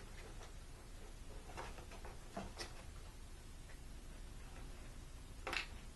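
Plastic parts of a Bissell ProHeat carpet shampooer being handled and fitted together by hand: a few light clicks and taps, the loudest near the end.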